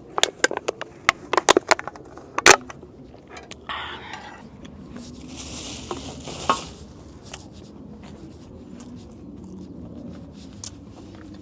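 Dishes and utensils clattering with sharp clicks and knocks in the first few seconds, then a brief rustle and a hiss of under two seconds, as camp cooking and eating gear is handled.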